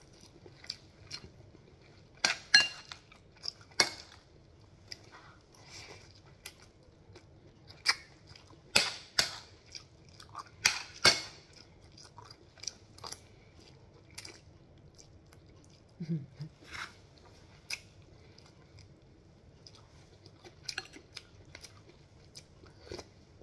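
Close-up eating sounds: chewing, wet mouth clicks and smacks while eating noodle soup with dried fish, in short irregular bursts. A metal spoon clinks against a glass bowl now and then.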